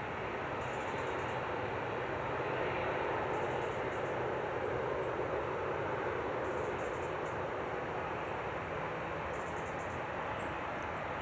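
Jet airliner engines giving a steady roar of noise that swells slightly a few seconds in.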